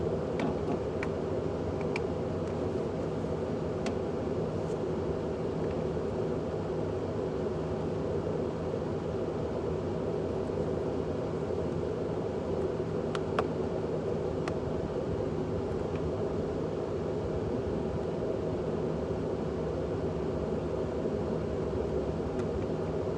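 Steady drone of a vehicle running, engine and road noise, unchanging throughout, with a few faint clicks.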